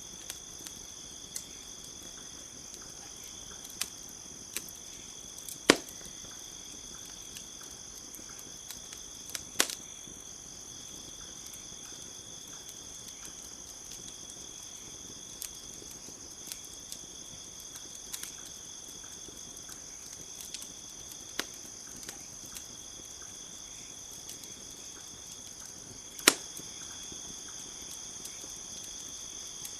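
Campfire crackling with scattered sharp pops, the loudest about six seconds in and again near the end, over a steady high-pitched chirring of insects.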